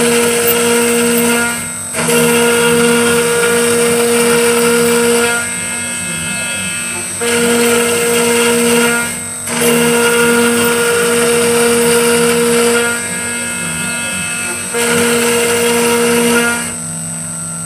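CNC 3040 router milling 6082 aluminium: the spindle runs with a steady high whine, and the cutter bites into the metal in five louder, harsher passes of about one and a half to three seconds each, with quieter stretches between them.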